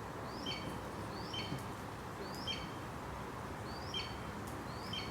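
A bird calling five times, about once a second; each call is a short upward-sliding note followed by a lower note, over a steady background hum.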